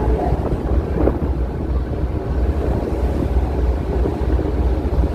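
Strong wind buffeting the microphone in a steady low rumble, over the noise of a rough sea.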